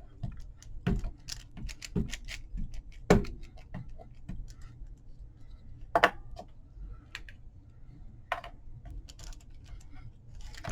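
Irregular small taps and clicks of a rubber stamp, ink pad and craft tools being handled on a table, with a few sharper knocks.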